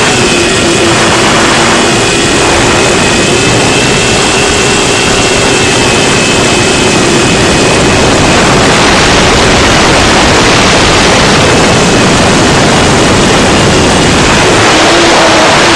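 6-inch FPV quadcopter's electric motors and propellers whining in flight, with heavy wind rush over the onboard camera microphone. The whine holds a steady pitch and dips slightly near the end.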